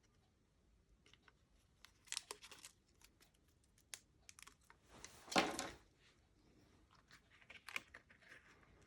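Cardstock and paper pieces being handled: faint rustles and small ticks, with one louder rustle about five seconds in.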